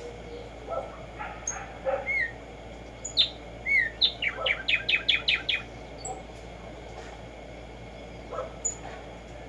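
Black-striped sparrow singing: a couple of spaced whistled notes, then a run of repeated notes that quickens, starting about three seconds in. Other faint bird calls and high chips come before and after the song.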